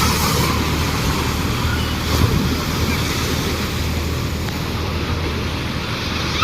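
Steady rushing noise of an Indian Railways passenger train on the move, with wind blowing across the microphone and a low running hum underneath.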